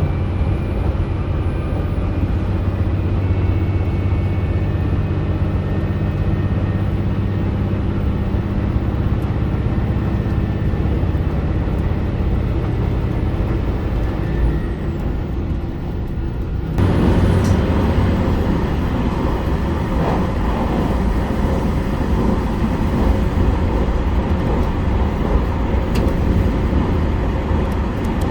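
HOT7000 series diesel railcar running at speed: a steady engine drone with low held tones, then about 17 seconds in a sudden jump to a louder, broad rushing noise of the train in motion.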